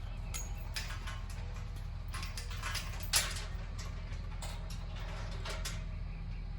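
Irregular metallic clicks, creaks and clanks over a steady low mechanical hum, with one louder knock about three seconds in.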